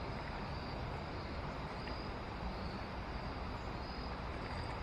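Steady rush of river water running over rocks, with crickets faintly chirping in short high trills every second or so.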